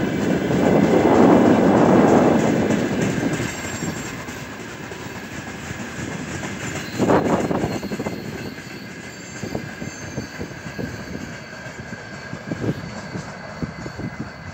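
Freight train of open wagons and tank cars rolling past, its wheels clattering over the rail joints, loudest in the first few seconds. About seven seconds in there is a sharp burst of clatter, then the noise thins to scattered knocks and a faint high squeal as the tank cars roll away.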